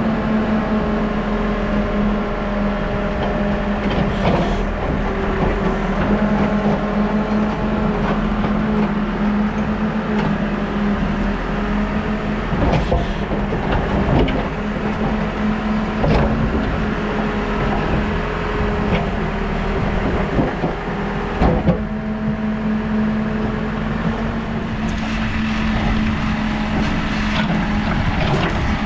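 New Holland backhoe loader's diesel engine running steadily under load, with a whine from the hydraulics that rises and falls as the arms move. A few sharp knocks are heard in the middle and later part.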